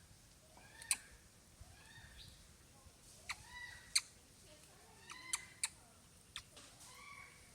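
Faint short, arched squeaks from a baby monkey, repeating about once or twice a second, with several sharp clicks scattered between them.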